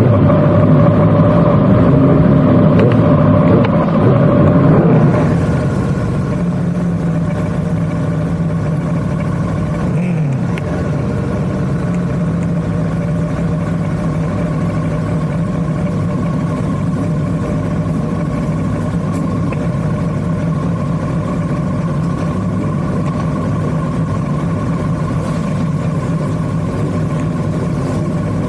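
Motorcycle engine running at a steady speed, holding one even note. It is louder for the first five seconds, then settles lower.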